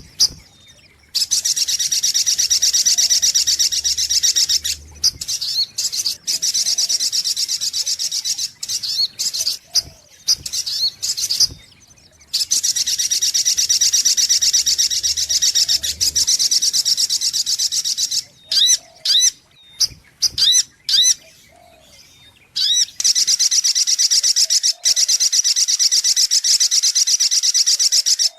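Sunbird (sogok ontong) song played as a bird-trapping lure call: long, very rapid high-pitched trills, each lasting several seconds, broken up by runs of short rising-and-falling chirps.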